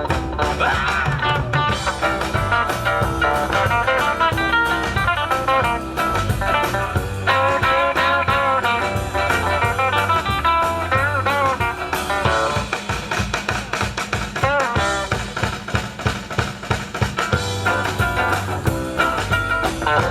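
Live rock and roll band playing an up-tempo number on drum kit and guitar, without a break.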